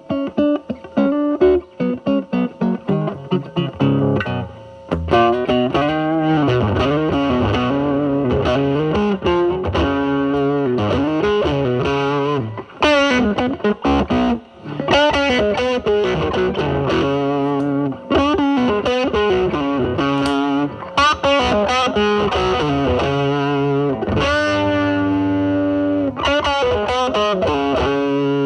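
Electric guitar played through a Mosrite Fuzzrite–style silicon fuzz pedal into a Marshall Valvestate amp on its drive channel. Short, choppy picked notes come first, then a lead line of sustained notes with string bends and vibrato, ending on a long held note.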